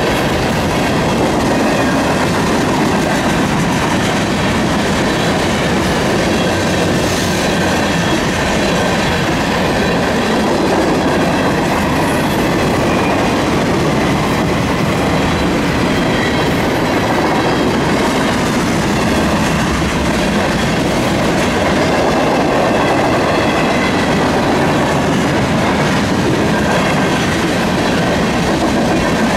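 Freight cars of a passing train (covered hoppers, tank cars and insulated boxcars) rolling by close at steady speed: a continuous loud rumble of steel wheels on the rails.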